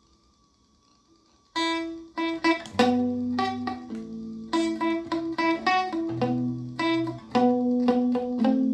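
A plugged-in stringed instrument starts playing about a second and a half in, picked notes and chords that ring on. The opening of the song follows. Before it starts there is only a faint steady hum.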